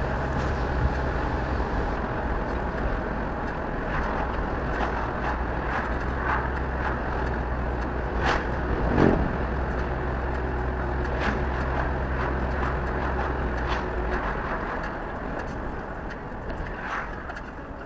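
Road noise inside a moving car: a steady low rumble of engine and tyres, with a few short clicks.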